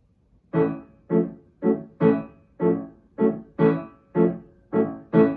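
Piano accompaniment starting about half a second in with short, detached repeated chords, roughly two a second: the introduction before the singing enters.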